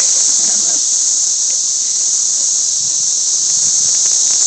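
Dense chorus of periodical cicadas calling together: a loud, steady, high-pitched hiss that never lets up.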